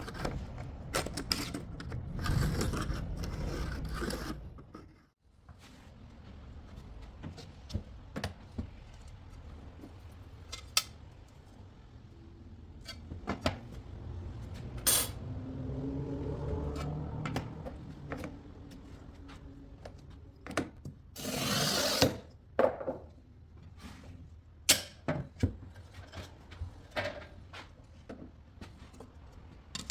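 Hand work at a stained-glass bench: scattered clicks, taps and scrapes of tools and glass pieces, with one loud, hissing rush of about a second past the two-thirds mark.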